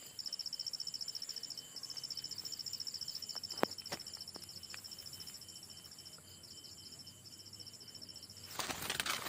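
An insect chirping in a fast, even, high-pitched pulsing trill that goes on and on. There are a couple of sharp clicks around the middle, and a short burst of rustling near the end.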